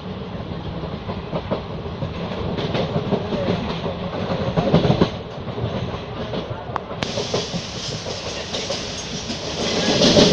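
Moving passenger train heard from inside a coach at an open window: a steady running noise of wheels on the rails with scattered knocks, swelling louder about halfway through and again near the end.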